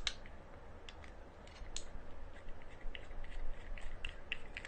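Scattered small clicks and taps of plastic camera accessories being handled and fitted together, a phone holder and mini tripod mount, coming more often in the second half.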